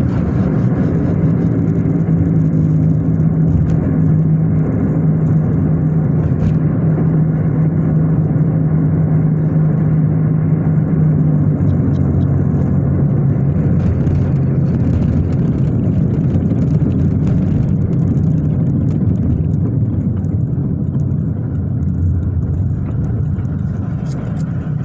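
Car driving: a steady drone of engine and road noise. A low engine tone holds for about the first twelve seconds, then fades into the general road rumble.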